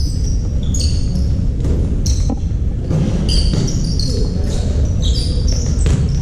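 Basketball game in a gym: sneakers squeaking repeatedly on the court and the ball bouncing, over a steady low hall rumble.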